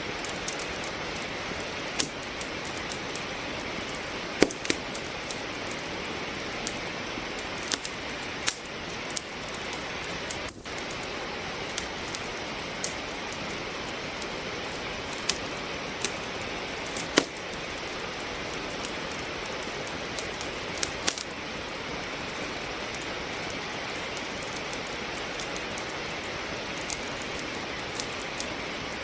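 Steady rain making an even hiss, mixed with a wood fire crackling in a fireplace: sharp pops from the burning logs come at irregular intervals, every second or two.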